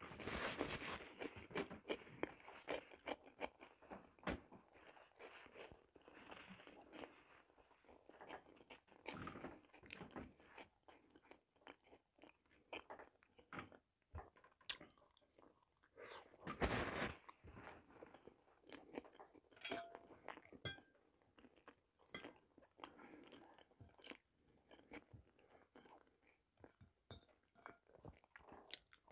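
Close-miked chewing and mouth sounds of a person eating, with scattered small sharp clicks and a couple of louder short bursts of noise, one at the start and one a little over halfway through.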